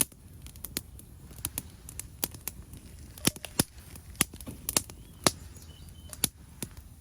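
Open campfire crackling, with irregular sharp pops several times a second.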